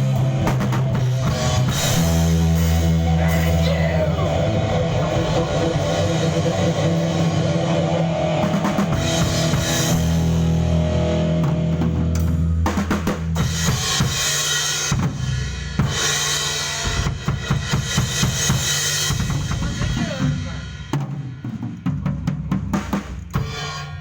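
Live band playing in a rehearsal studio: a drum kit with bass drum, snare and cymbals over held low bass notes. About halfway the playing breaks into separate accented hits, and it dies away near the end as the song finishes.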